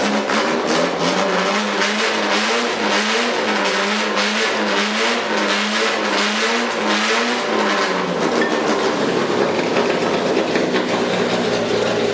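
Fiat 127's four-cylinder engine running on its first start-up, its speed rising and falling about once a second, then settling to a steadier idle about eight seconds in.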